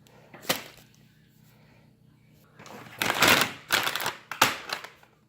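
Food items and packaging being handled and set down: a single sharp click, then a couple of seconds of rustling and clattering with several knocks.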